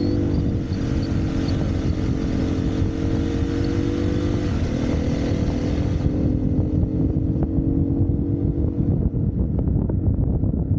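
Single-cylinder four-stroke dirt bike engine running steadily under way, with wind on the microphone. The engine note drops in pitch about halfway through, and near the end it eases off while sharp knocks and clicks come through.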